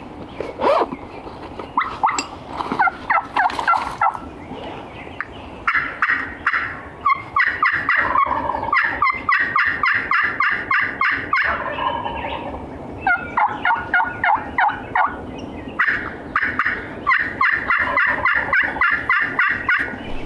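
Wild turkey hen calling made on turkey calls to sound like several hens: runs of fast, excited yelps and cutts, with a long run in the middle and another near the end.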